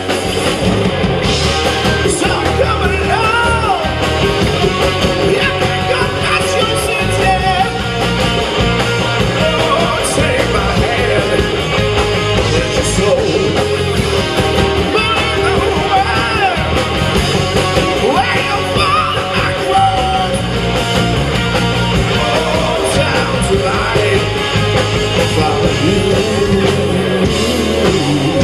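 Live rock band playing loud with electric guitars, bass and drums, and a vocalist singing and yelling over it.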